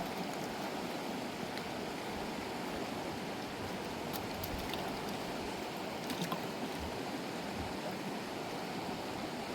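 Steady rushing of a fast, swollen mountain river, with a few faint clicks over it.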